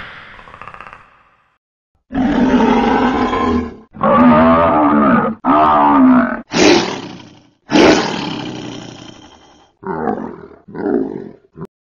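Monster roars and growls, about six in a row, each lasting one to two seconds, then two or three shorter, quieter growls near the end.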